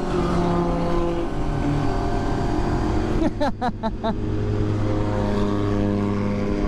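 Motorcycle engine running at a steady cruising speed, with road and wind noise. A short run of quick chirps comes about halfway through.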